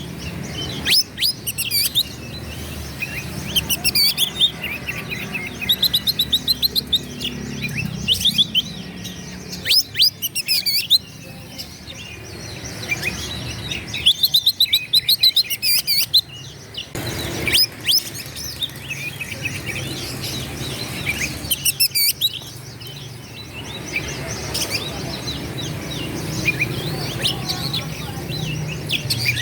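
Oriental magpie-robin singing an agitated song of rapid whistles, trills and chirps in bursts with short pauses.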